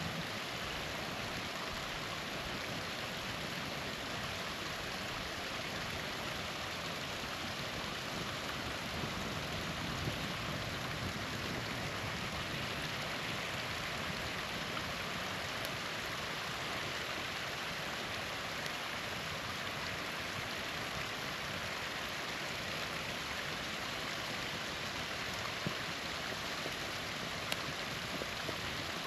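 A small waterfall running with a steady, even rush of water. Now and then a faint pop from the campfire.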